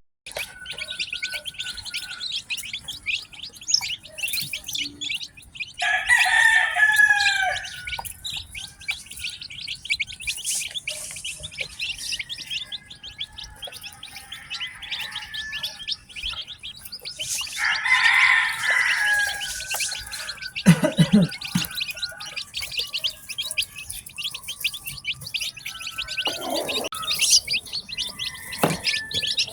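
Newly hatched chicks peeping continuously, many rapid high chirps overlapping. Twice an adult chicken gives a louder, longer call, and there are a few knocks in the last third.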